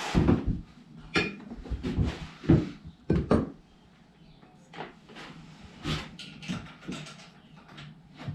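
Irregular knocks, clunks and clicks of metal motorcycle front-fork parts and tools being handled during fork installation. The loudest cluster comes in the first few seconds, then scattered lighter clicks.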